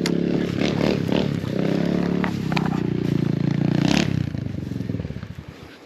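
Small 125 cc four-stroke single-cylinder dirt bike engine running at low, steady revs, with scattered clicks and scrapes, then falling away about four seconds in.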